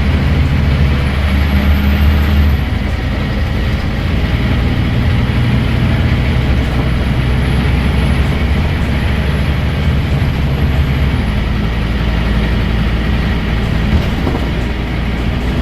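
Scania N230UD bus's five-cylinder diesel engine and ZF Ecomat automatic gearbox running under way. The engine note changes about two and a half seconds in and again past the middle.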